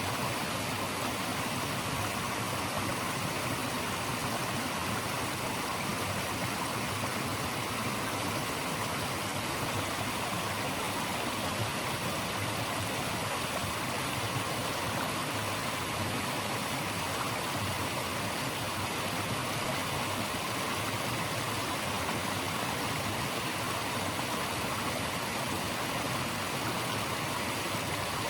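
Steady, even rushing of running water, with no distinct events.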